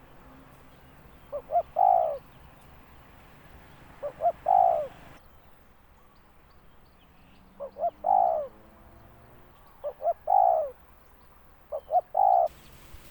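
Spotted dove calling: five cooing phrases a few seconds apart, each two short notes followed by a longer, falling coo.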